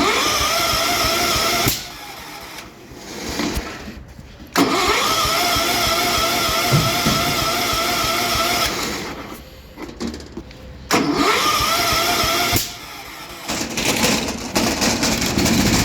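A 1974 Cub Cadet 1650's 16 hp Kohler engine being cranked by its electric starter in three bursts, the longest about four seconds, with a warbling whine, on a hard cold start with the choke pulled further. Near the end it begins to fire.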